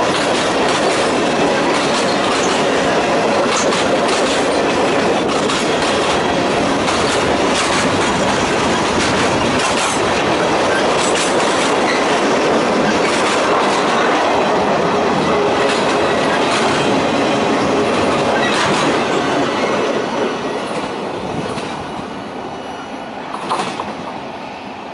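Freight cars of a Norfolk Southern train, tank cars and covered steel-coil cars, rolling past close by: a steady rumble and rattle of wheels on rail, with sharp clicks as wheels cross the rail. About twenty seconds in, the sound starts to fade as the last car goes by, with one sharp knock shortly before the end.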